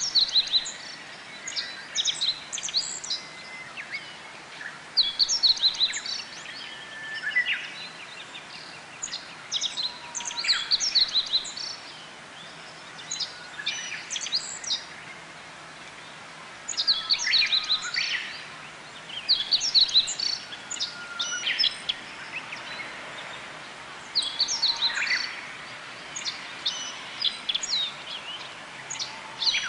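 Japanese white-eyes singing: rapid, high twittering phrases come in bursts every couple of seconds throughout, with a few longer, lower whistled notes between them.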